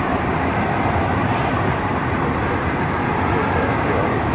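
Hanshin Electric Railway train running: a steady, even rumble of wheels and running gear.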